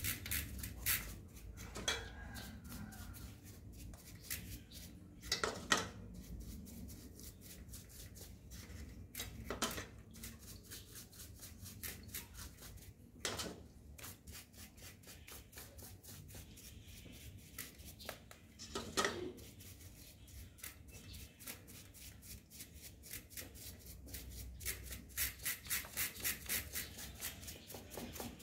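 Hand work on a bicycle: small metallic clicks and a few louder clinks of tools and parts, with a quick run of evenly spaced clicks near the end.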